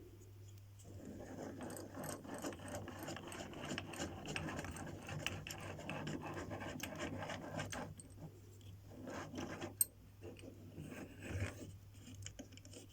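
Small hard objects handled and shifted about: dense rattling and scraping with many small clicks for about seven seconds, then a few scattered clicks and one sharp click near ten seconds in.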